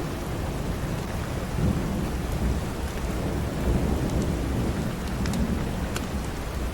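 Steady rain with a low rolling rumble of thunder, and a few sharp pops from a crackling fireplace.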